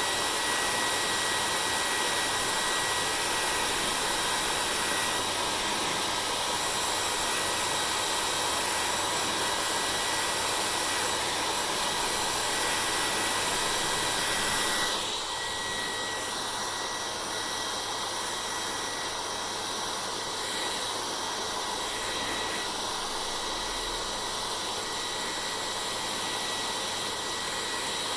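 Hair dryer blowing steadily, a whooshing airflow with a thin steady whine. About halfway through it gets slightly quieter and its tone shifts, then runs on evenly.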